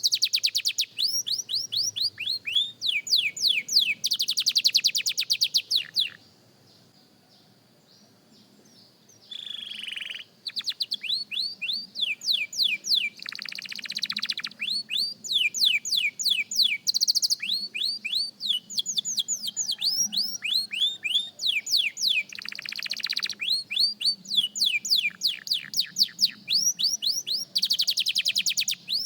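Young canary practising its song: fast runs of repeated rising and falling whistled notes and rapid trills. It breaks off for about three seconds some six seconds in, then starts again with a short lower note and keeps singing.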